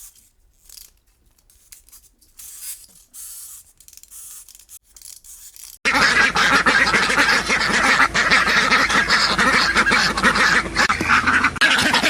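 Faint scattered sounds at first, then about six seconds in a flock of ducks starts quacking all at once, loud and continuous, many calls overlapping.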